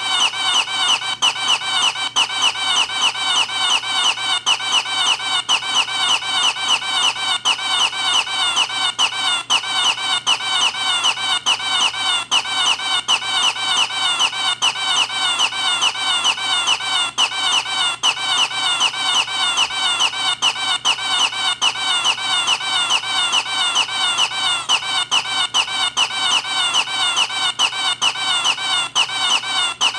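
A short squeaky, squawking noise repeated over and over in a fast, even loop, several times a second without a break.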